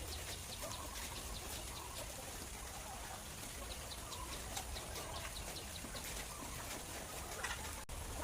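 Birds calling faintly: scattered short calls and chirps over a steady low rumble.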